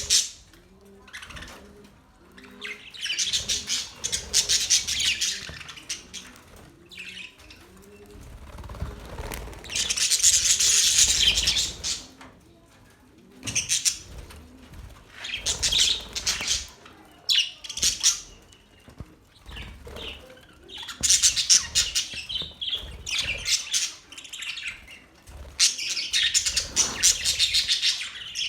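Budgerigars chirping and chattering in bursts of one to two seconds, with short quieter gaps between them. A faint, low, evenly repeated call sounds under them for the first several seconds.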